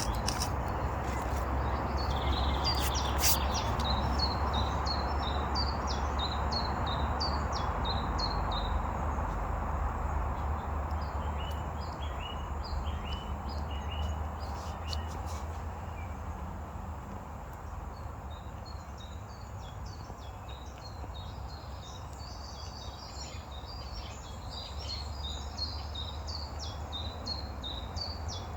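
Small songbirds chirping in short repeated phrases, in two spells. Under them a small campfire just catching on fatwood gives a steady rush with a few sharp crackles, the rush fading after about ten seconds.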